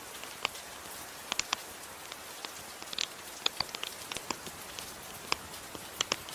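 Fireplace wood fire crackling, with irregular sharp pops and snaps, over a steady soft hiss of gentle rain.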